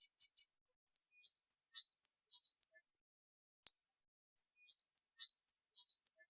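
Kemade bird singing loud, clear high 'cit' notes. It opens with a quick triple chip, then gives a run of short downward-sweeping whistles, pauses briefly, gives one rising note, and carries on with more falling whistles.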